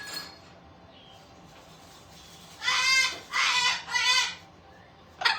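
A parrot calling three times in quick succession, wavering calls with a shaky pitch, about two and a half seconds in. A short, sharp call follows near the end.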